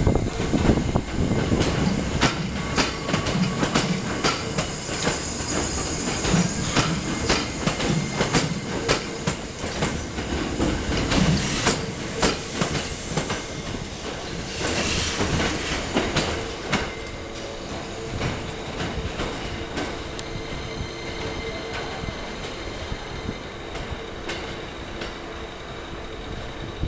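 Hankyu 9300 series electric train running past, its wheels clicking rhythmically over rail joints, with brief high wheel squeal now and then. The clicking thins out and the sound eases off over the last ten seconds as the train draws away.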